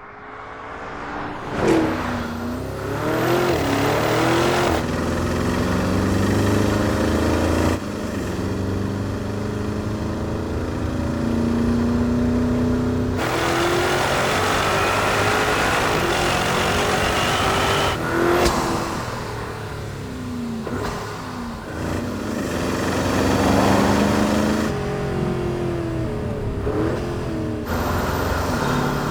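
Porsche Cayenne Turbo GT's 4.0-litre twin-turbo V8 revving and accelerating, its pitch rising and falling, in a string of short takes that change abruptly several times.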